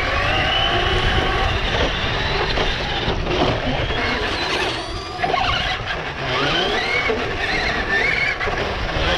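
Electric motor of a radio-controlled car whining, its pitch rising and falling with the throttle, over a steady rumble of wind and rolling noise.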